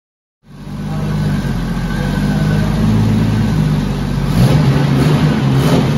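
Jeep Wrangler YJ engine running at low revs, cutting in abruptly about half a second in. Its note lifts a little about four and a half seconds in.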